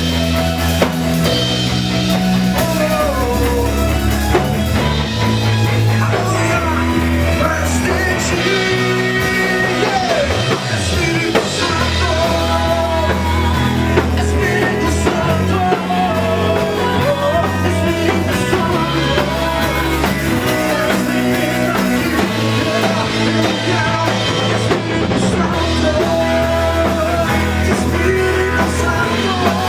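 Live worship band playing a song with drum kit, bass and electric guitar, and a voice singing the melody over it.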